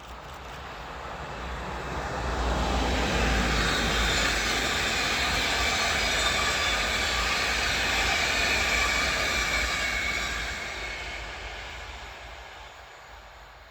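A train passing by: rail and wheel noise that swells, holds loud for several seconds, then fades away.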